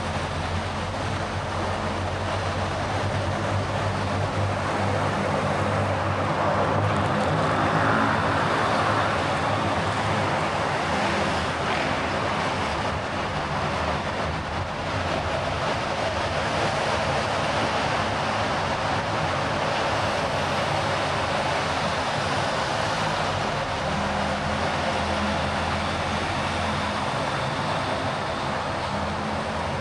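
A car driving in city traffic: a steady mix of engine hum and tyre and road noise, swelling a little several seconds in.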